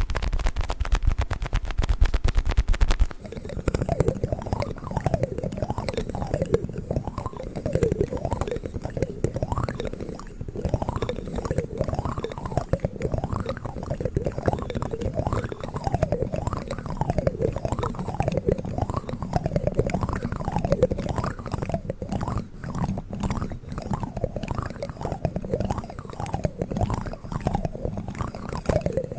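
Plastic spoons handled close to the microphone, rubbed and scraped so they give a repeating whine that rises and falls in pitch over a low rustle. In the first few seconds a small toy ball is handled instead, a dense rapid crackle that stops suddenly.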